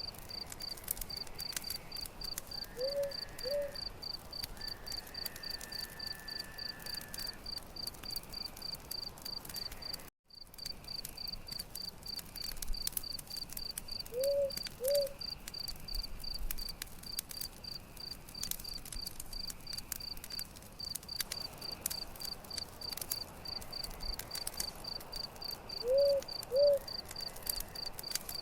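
Night campfire ambience: a cricket chirping steadily about two to three times a second, with scattered crackles of a wood fire. A low two-note call comes three times, roughly every eleven seconds, and the sound cuts out for a moment about ten seconds in.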